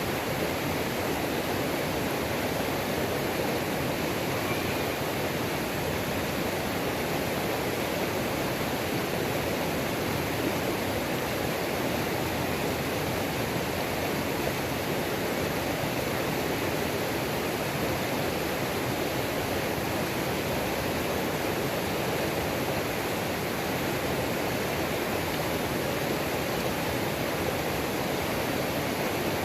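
Waterfall and mountain creek, water pouring and rushing in a steady, even roar with no changes.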